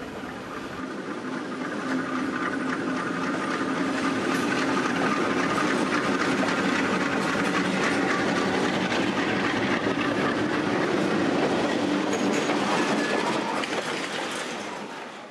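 Freight train hauled by diesel locomotives passing close by, its wheels clattering on the rails. The sound swells over the first few seconds, holds steady, then fades near the end.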